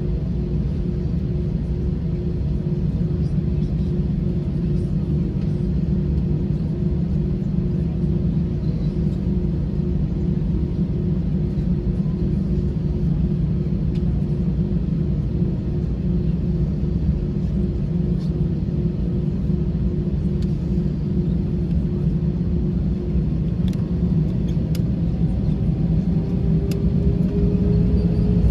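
Airbus A321 jet engines running at low power with a steady low rumble and a steady hum. Near the end a tone glides upward and the sound grows louder as engine thrust increases.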